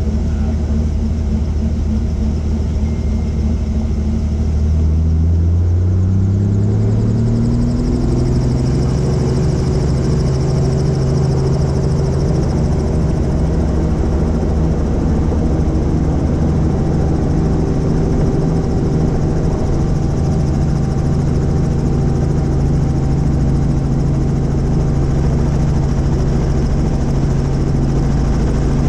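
Helicopter engine and rotor running loudly; about five seconds in the pitch climbs over a couple of seconds, then holds steady.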